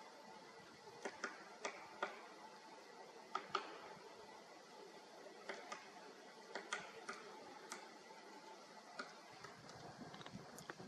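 Great spotted woodpecker pecking at wood: single sharp taps at irregular intervals, some in quick pairs, about fifteen in all, over a faint steady background hiss.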